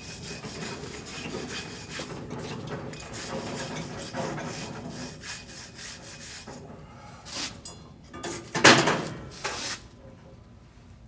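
Flux-core welding arc crackling steadily as a bead is laid, stopping about six and a half seconds in, then several short crackling bursts of restarted arc, the loudest near the end.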